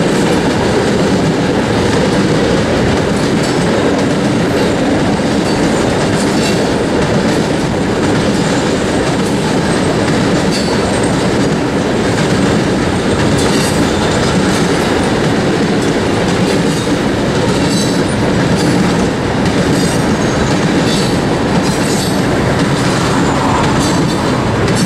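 Coal train's railcars rolling steadily past at close range: a continuous loud rumble with wheel clatter over the rail joints and brief high squeals from the wheels.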